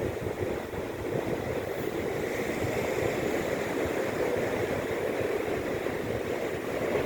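Sea surf washing on the shore: a steady, even rush of waves.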